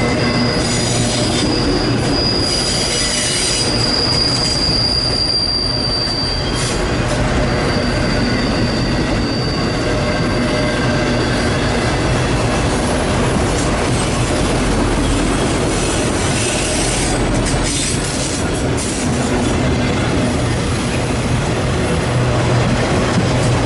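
Train cars rolling past on the rails, with steel wheels squealing in a high steady tone for several seconds near the start and again briefly a few seconds later.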